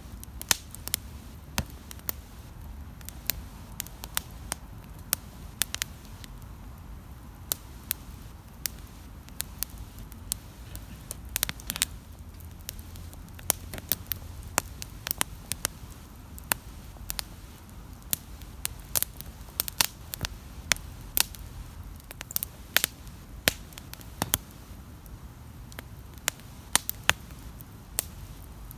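Wood campfire crackling: irregular sharp pops and snaps, several a second, over the low steady rumble of the burning fire.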